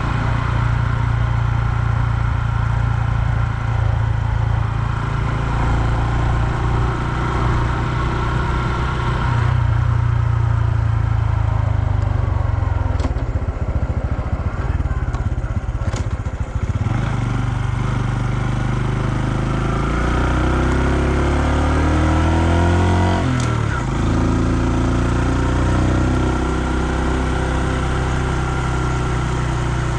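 2020 Honda Super Cub's small single-cylinder engine running while riding, its pitch shifting with speed. Past the midpoint the engine note climbs steadily, then drops suddenly a little after two-thirds of the way through, as at a gear change.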